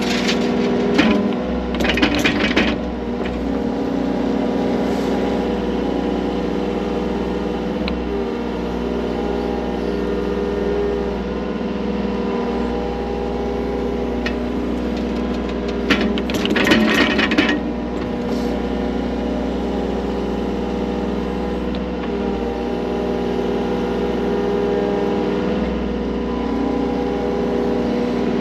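Engine of digging equipment running steadily under load, with two bursts of scraping and clanking, one near the start and one a little past halfway.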